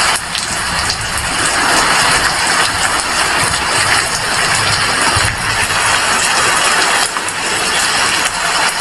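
Heavy rain falling, a dense steady hiss that swells and eases slightly.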